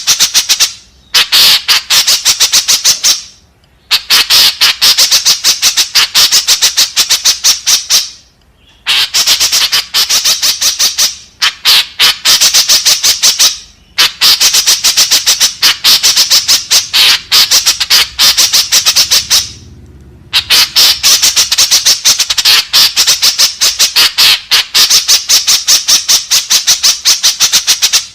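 White-breasted woodswallow (kekep babi) calling: harsh, rapid chattering notes repeated several times a second, in long runs broken by a few short pauses.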